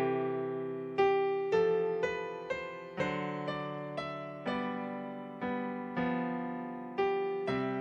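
Solo piano playing slow, soft chords, struck about once a second and each left to ring and fade before the next.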